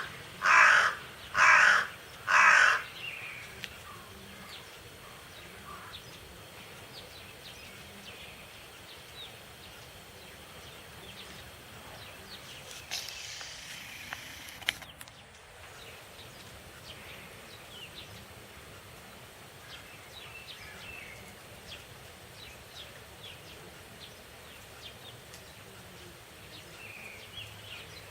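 A crow cawing four times, about a second apart, then falling silent over a faint steady background.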